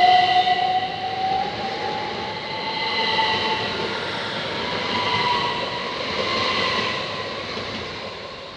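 Electric train's traction motors whining, the pitch rising slowly as it accelerates, over running noise that fades toward the end.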